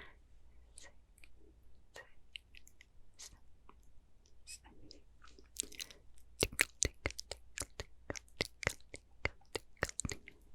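Close-miked wet mouth sounds: sparse clicks and smacks, then a rapid run of louder sharp clicks from about six seconds in.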